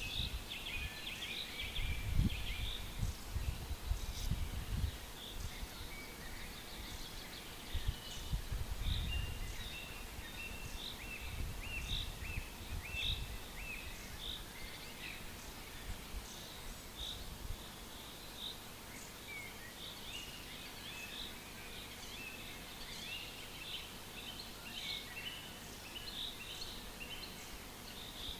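Forest birds singing, a chorus of short chirps and repeated whistled notes from several birds, over a steady outdoor hush. Irregular low rumbles come and go during the first half.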